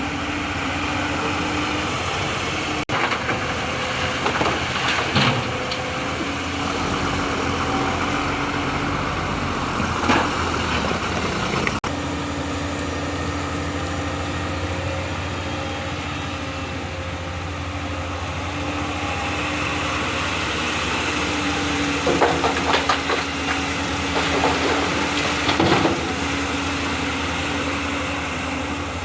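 Excavator's diesel engine running steadily, with short clanks and clatters about 5 and 10 seconds in and a cluster of them between about 22 and 26 seconds in.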